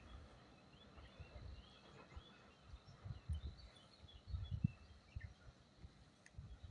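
Small birds chirping faintly, with irregular low gusts of wind buffeting the microphone.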